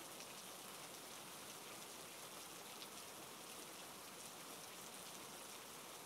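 Faint, steady rain: an even hiss flecked with small drop ticks.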